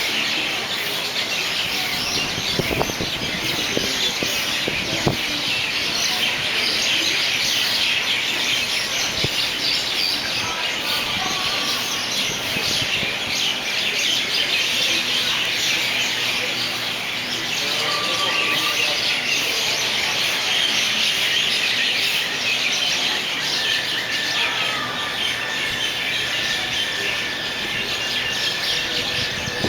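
A large flock of birds roosting in a ficus tree, many chirping and chattering at once in a dense, unbroken chorus.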